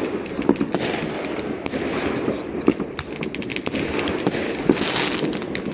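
Fireworks going off in quick, irregular succession: many sharp bangs and crackles over a steady din of more distant explosions, with a hissing burst about five seconds in.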